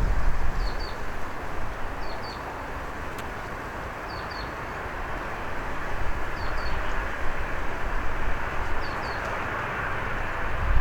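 Strong wind buffeting the microphone, a low rumble over a steady broad rush that eases in the middle and builds again near the end. A small bird repeats a quick two-note chirp every one and a half to two seconds.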